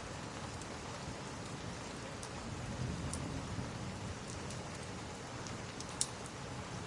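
Steady rain with the scattered sharp pops of a crackling wood fire; one louder pop about six seconds in.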